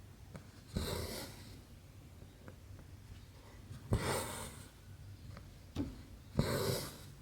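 Needle clicking through cross-stitch canvas and the embroidery floss drawn through with a short swish, three times a few seconds apart.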